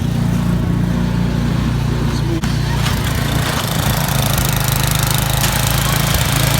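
An engine running steadily, with a short dip about two and a half seconds in and more hiss joining from about three seconds in.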